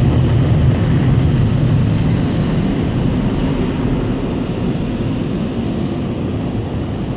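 Automatic car wash air-dryer blowers rushing steadily against the car, heard from inside the cabin, slowly growing quieter.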